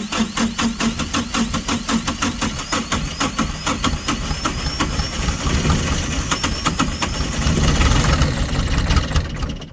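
Compact diesel tractor engine being cranked over by its starter in an even rhythm, nearly catching in the last seconds without starting, then the cranking stops abruptly. It is a cold no-start from gelled diesel fuel with air still in the fuel line after bleeding.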